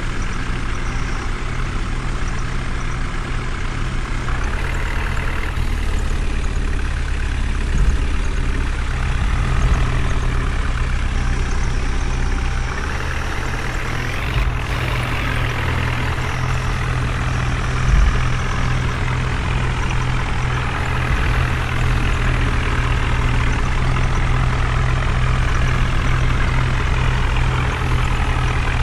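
Heavy diesel engine running steadily, its sound swelling and easing a couple of times as it works. Two heavy thumps come at about 8 and 18 seconds in.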